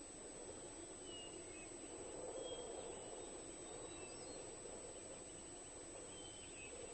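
Faint outdoor grassland ambience: a soft, steady low rush with a few brief, thin, high chirps from distant small birds scattered through it.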